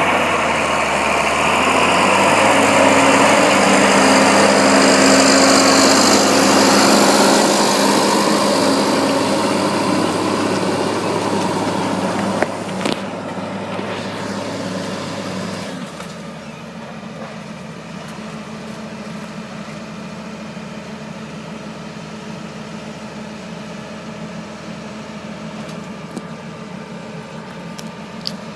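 John Deere 4955 tractor's six-cylinder diesel engine running while pulling a John Deere 2700 disc ripper. It is loud and noisy for the first half, with a sharp knock a little before the halfway point. About halfway through it drops suddenly to a quieter, steady engine hum.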